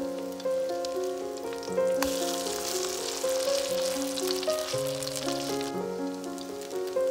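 Potato pancakes frying in hot oil in a pan, a crackling sizzle that swells about two seconds in and eases back near six seconds. Background music with held, steady notes plays throughout.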